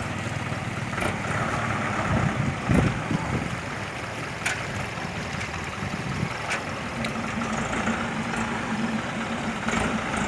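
Truck engine running steadily, with a few heavy thumps about two to three seconds in.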